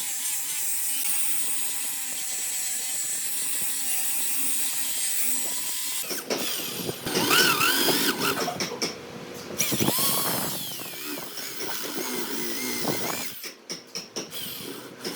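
A power tool motor runs steadily for about six seconds, then its pitch wavers up and down and its loudness swings as it works the wood. It drops out briefly a few times near the end.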